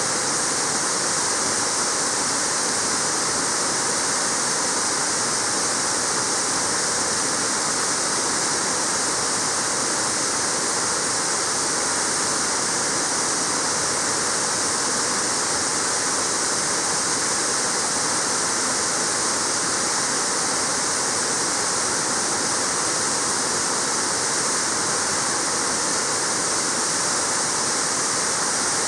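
Waterfall: a steady, even rush of water falling onto rock and pool.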